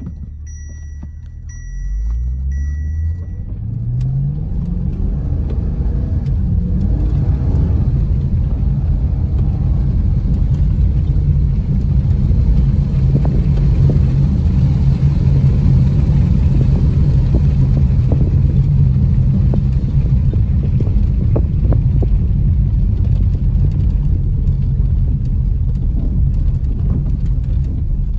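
A 325 kW 6.2-litre LS3 V8 heard from inside the cabin, pulling away from a standstill with its engine note rising through the automatic's upshifts, then settling into a steady low rumble while driving. A few short electronic chime beeps sound in the first couple of seconds.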